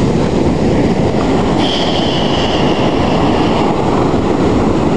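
Ocean surf with a wave washing up the beach, under heavy wind buffeting on the microphone; a hissing rush of water comes in about a second and a half in and lasts about two seconds.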